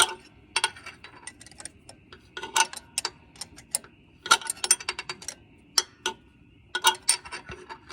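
Hand tools clicking and clinking against metal parts, in irregular quick runs of sharp ticks, while the drive shaft of a Kubota BX23S compact tractor is put back together.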